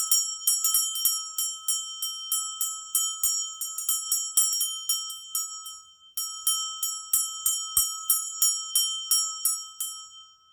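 A small high-pitched bell rung rapidly and repeatedly, about three strikes a second, to cleanse tarot cards. The ringing dies away briefly about six seconds in, then starts again.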